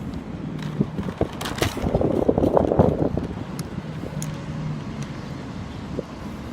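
Chewing and mouth sounds of someone eating a McDonald's McDouble burger, with a louder stretch of noise and clicks about two seconds in, over a steady low hum.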